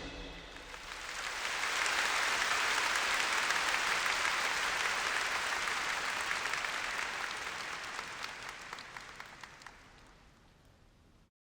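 Arena crowd applauding and cheering after a song ends, swelling up, holding steady, then fading out and cutting off near the end.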